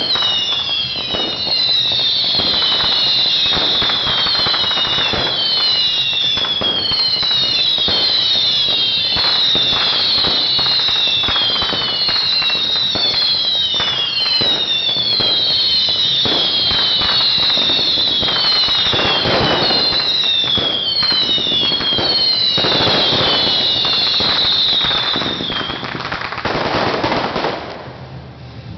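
Fireworks display with many whistling fireworks going off at once, each whistle falling in pitch, over a dense run of cracks and bangs. The whistles stop near the end and the bangs thin out.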